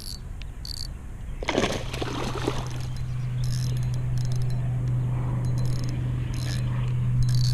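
A hooked bass splashing at the surface about a second and a half in. After that come short bursts of the fishing reel's drag clicking as the fish pulls line, over a steady low hum.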